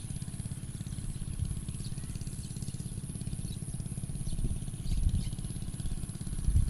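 An engine running steadily with a low, rapid pulsing beat, with a few heavier low thumps about five seconds in and near the end.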